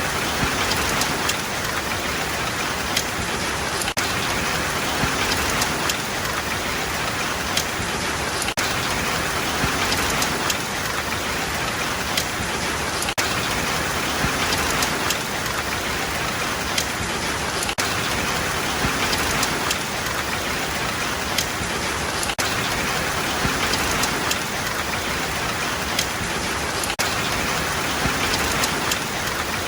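Steady heavy rain falling, with a dense hiss and the close patter of individual drops striking a surface.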